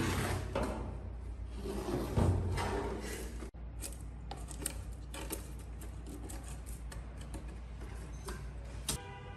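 Rubbing and scraping strokes, then many short clicks and taps, with an abrupt break about three and a half seconds in.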